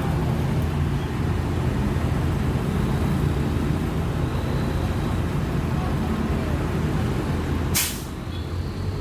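Heavy truck diesel engine running steadily, with one short, sharp air-brake hiss near the end.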